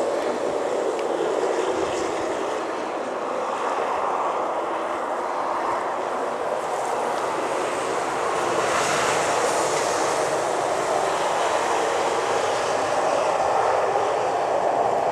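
A snowplow going by with its blade scraping along the bare road, a steady grinding rumble with a hissing swell about nine seconds in.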